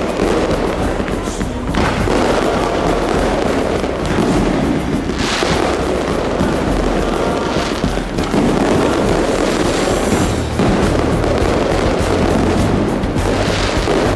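Aerial fireworks shells bursting overhead in quick succession: a dense, unbroken crackle and popping, with louder bursts standing out every few seconds.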